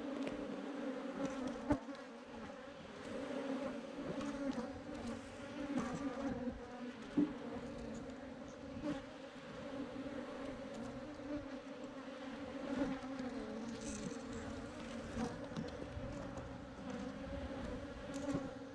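Swarm of Africanized honeybees buzzing in a steady, dense hum, with a couple of sharp clicks about two and seven seconds in.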